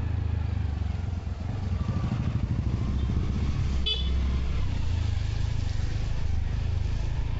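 Motorcycle engine running steadily while riding, heard as a low drone, with road and wind noise on the microphone. A brief high-pitched beep sounds about four seconds in.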